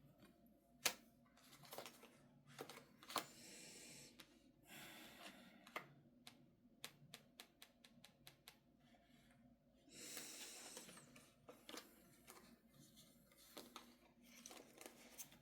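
Faint handling of tarot cards on a table: scattered light clicks and taps, with a couple of soft sliding swishes of cards being moved, about four seconds in and again about ten seconds in.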